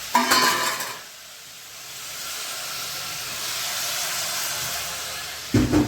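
Mutton pieces sizzling in hot oil in an open cooking pot, a steady hiss that swells in the middle. A short louder sound comes about the first second and again near the end.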